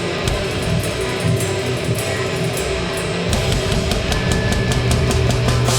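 A live hardcore band playing loud, heavily distorted guitars over bass and drums, with the cymbal and snare hits coming thicker about halfway through.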